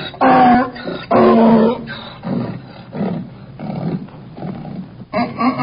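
Donkey braying: two loud drawn-out pitched calls, then a run of softer wheezing gasps about twice a second, and another loud call starting near the end.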